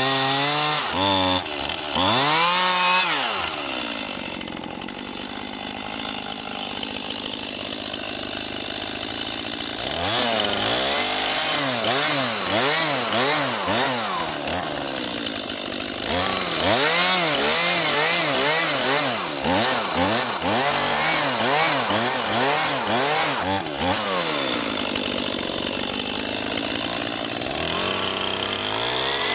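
Petrol chainsaw cutting into an oak log, its engine revved up and down again and again, settling to a steadier, lower run for a few seconds around the fifth second and again near the end.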